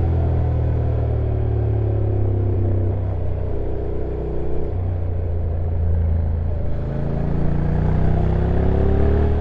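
Honda NC750X's parallel-twin engine running on a downhill ride. Its pitch steps abruptly a few times as the dual-clutch gearbox changes gear, then climbs steadily over the last couple of seconds.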